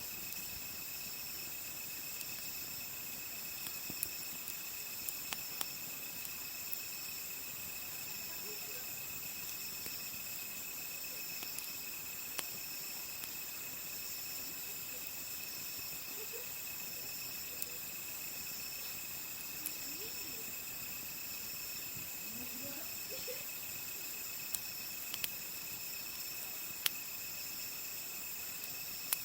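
Crickets and other insects trilling steadily at night, with sharp pops and crackles now and then from a wood campfire. Faint voices waver in the background about midway through.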